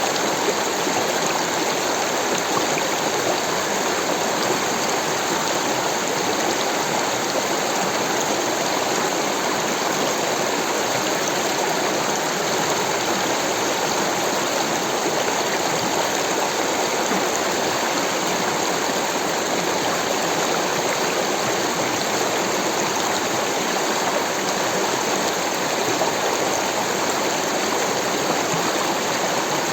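Rushing water flowing steadily, an even hiss that does not change or break.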